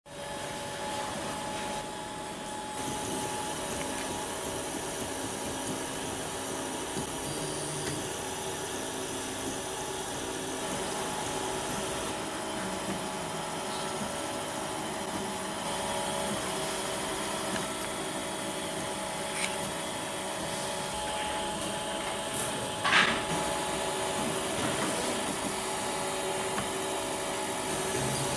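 Prusa i3 kit 3D printer running: a steady mechanical whine of several held tones over a hiss, with a sharp click about 23 seconds in.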